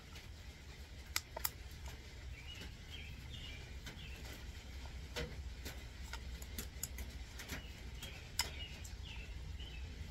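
Faint bird chirps scattered over a steady low hum, with a few sharp light clicks of small parts and a pick being handled on the oil filter housing.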